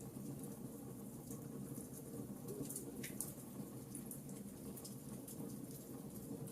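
Burning log fire crackling: irregular sharp pops and ticks, a few louder ones scattered through, over a steady low background.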